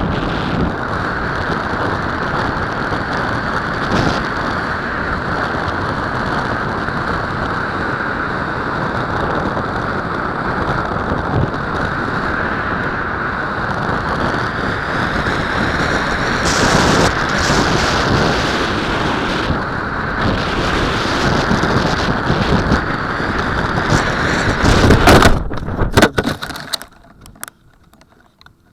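Wind rushing steadily over the microphone of an onboard camera on a Super Fox RC slope glider, with no motor. The rushing grows louder in the second half. About 25 s in, a loud rough burst comes as the glider crashes into the cliff face, and then the rushing cuts off.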